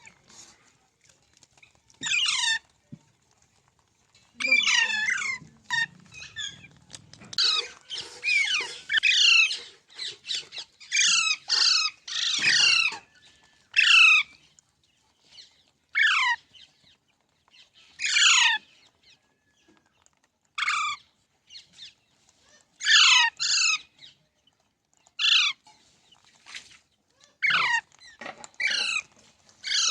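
Rose-ringed parakeet screeching: repeated shrill calls, each a quick downward sweep in pitch, coming singly and in quick clusters with short gaps between.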